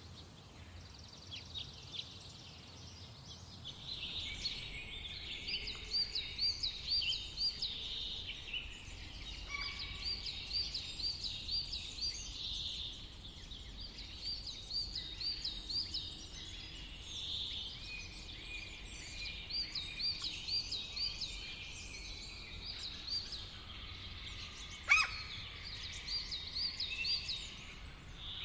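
Several forest songbirds singing at once: overlapping songs of quick, repeated high chirping phrases that start about four seconds in, with one sharp louder call near the end, over a faint steady background rumble.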